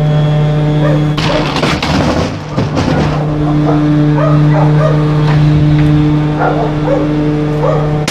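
A dog barking several times, in short separate barks, over the steady hum of an idling trash truck.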